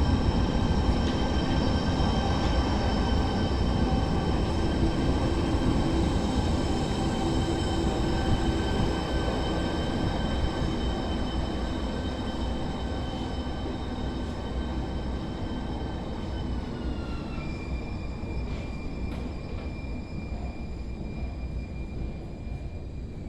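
Siemens S200 light-rail train's IGBT-VVVF traction inverters whining over rail rumble, several steady tones that drop in pitch about two-thirds of the way through and settle on a new tone. The sound gradually fades.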